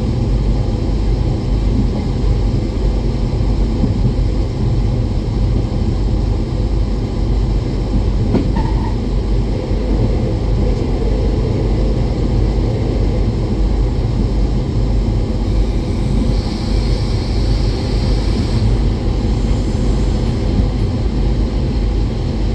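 Diesel train climbing a grade, a loud, steady rumble of engine and wheels on the rails, with a brief higher hiss about two-thirds of the way through.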